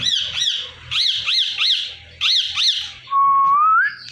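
Indian ringneck parakeet calling in quick runs of sharp, high chirps, about three at a time. Near the end comes one held whistle that rises in pitch.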